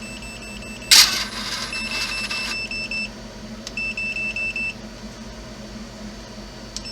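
High-pitched electronic whine from the RC snowcat's brushless track motors and speed controller, coming in two groups of rapid short pulses, about seven a second. The tracks keep creeping instead of stopping. About a second in there is a loud, sudden rattle that dies away over a second or so.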